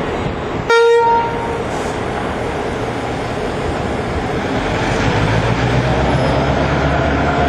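A pair of Irish Rail 'small GM' diesel locomotives sounds a brief horn toot about a second in. The engines then run louder from about halfway through, a low drone building as the train pulls away.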